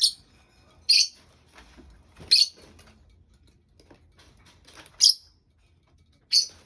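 Pet birds giving short, sharp, high-pitched chirps, five separate calls spaced about a second or more apart.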